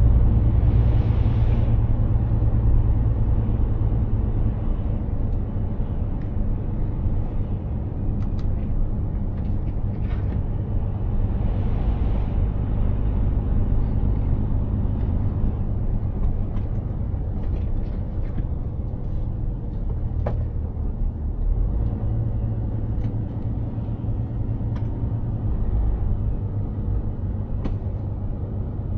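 Mercedes-Benz Actros truck driving along, its engine running steadily with a low rumble under road and tyre noise. Two short hisses come about a second in and again around twelve seconds.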